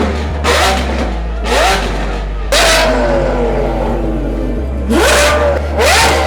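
Straight-piped BMW engine revving up again and again, pitch climbing about five times, each climb met by a loud rasp from the open exhaust, with music underneath.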